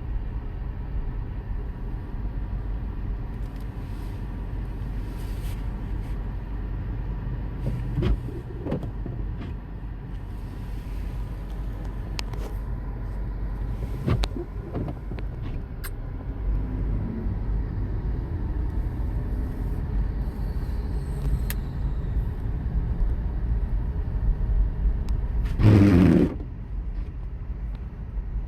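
Steady low rumble of a car driving, with a few clicks and knocks, and a short, loud pitched sound about two seconds before the end.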